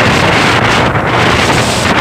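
Loud, steady wind buffeting the microphone, over the rushing noise of a jet boat on the river.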